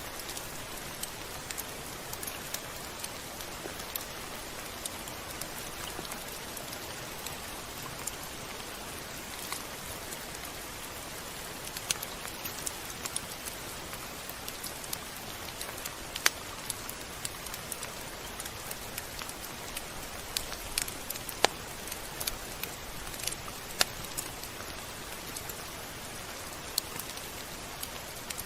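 Steady rain falling, an even hiss with scattered sharp ticks of individual drops striking a surface, a few of them louder.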